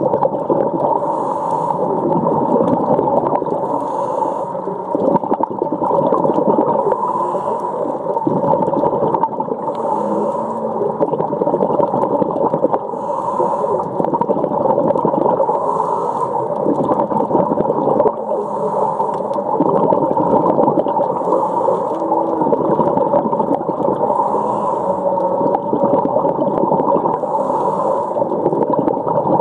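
Humpback whales calling, heard underwater: short whining, moaning calls over a dense steady wash of water noise.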